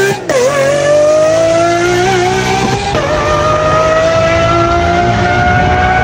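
V12 sports car engine accelerating hard through the gears, its pitch climbing steadily. The pitch drops at each upshift, about half a second in and again near the halfway point.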